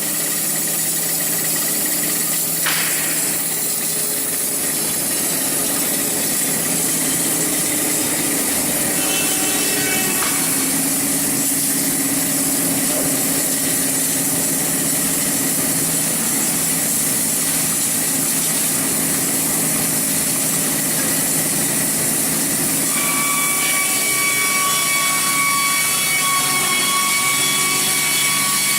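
SAWSPEC 660 narrow-blade bandsaw mill, with a Wood-Mizer type blade, running steadily and sawing through a log. A higher whine joins in near the end.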